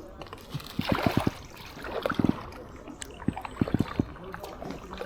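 Kayak paddle strokes: three splashes of the paddle blades entering the water, about a second apart, each with a few short low thuds, over gurgling river water.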